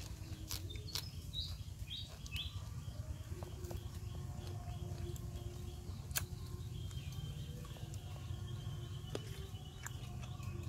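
Close-up chewing of a lettuce wrap with grilled pork, with sharp crunches and mouth clicks now and then. Birds chirp a few times about one to two seconds in.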